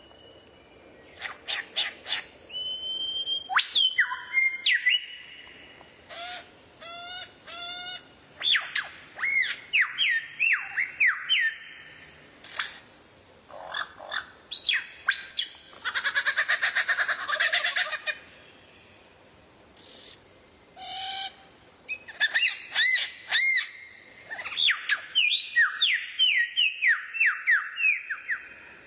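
Songbird calling in short, varied phrases with brief gaps: quick rising-and-falling chirps, sharp high notes and, partway through, a harsh buzzy rattle.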